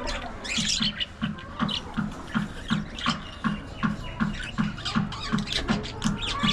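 Budgerigars chirping and squawking in short, rapid calls over background music with a steady quick beat, about three thumps a second.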